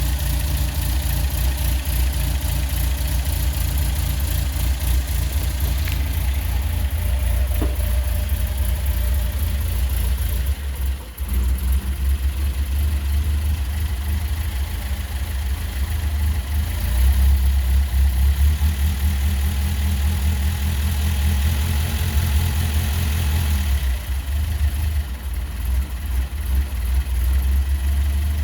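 1963 Datsun Fairlady 1500's four-cylinder engine idling steadily on a cold start, dipping briefly about eleven seconds in and running a little louder for a couple of seconds later on.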